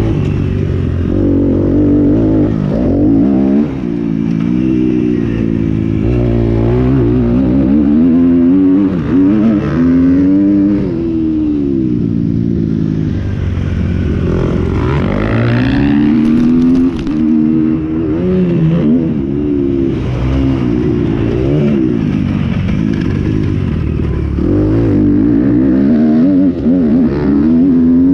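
Several motocross bikes' engines revving hard and overlapping, their pitch repeatedly rising and dropping back.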